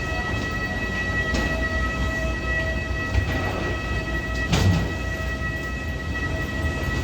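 A vehicle running, heard from inside: a steady whine with several tones over a low rumble, with a few brief knocks about a second, three seconds and four and a half seconds in.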